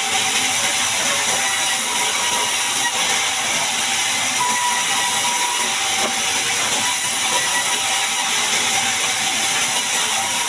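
Band sawmill running through a large mahogany log, a steady high hissing noise that keeps an even level throughout.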